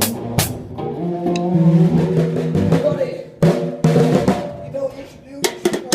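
Band rehearsal playing loudly. Drum kit hits open it, amplified guitar chords ring out, and a loud crash comes about three and a half seconds in. Near the end a rapid snare fill starts.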